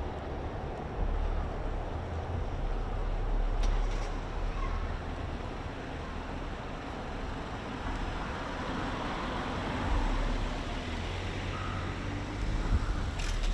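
Steady hum of city road traffic with a low rumble, with a few faint ticks over it.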